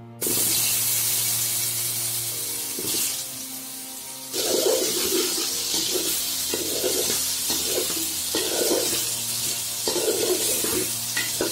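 Cut potatoes hitting hot oil in a metal pan and frying with a loud sizzle that starts suddenly. The sizzle eases, then flares up again about four seconds in as the potatoes are stirred with a metal spoon. Faint background music underneath.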